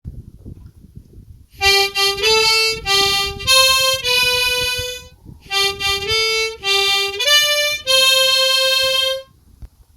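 Harmonica playing a slow melody in two phrases of held notes, the second ending on a long held note. A low, uneven rumbling noise runs underneath and is heard alone just before the tune starts.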